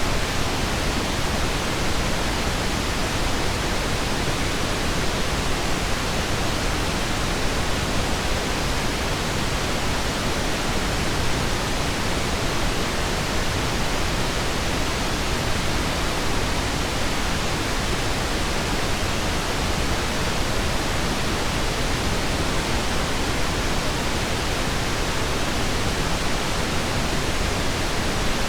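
Steady pink noise: an even, unchanging hiss, fuller in the low end than in the highs.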